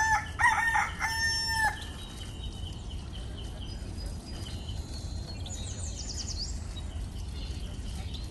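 A rooster crows once: a few quick notes, then one long held note that ends a little under two seconds in. After that comes steady background noise, with a few faint high bird chirps about six seconds in.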